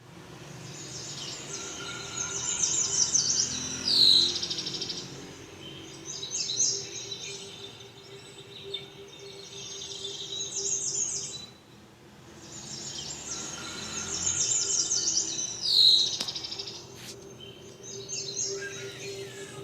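Small songbirds chirping and trilling in a busy, overlapping chorus, with loud bursts of song about four seconds in and again about sixteen seconds in.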